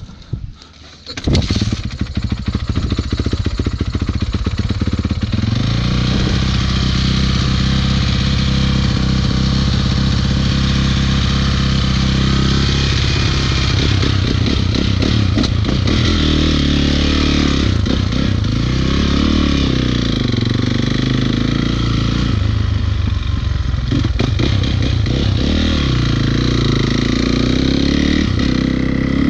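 Dirt bike engine starting up about a second in and running steadily, then revving up and down over and over as the bike is ridden.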